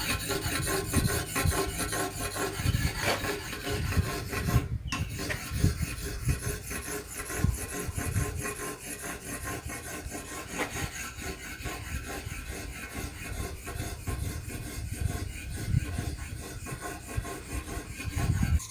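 A rubber-tapping knife being sharpened, with repeated rasping strokes of the blade.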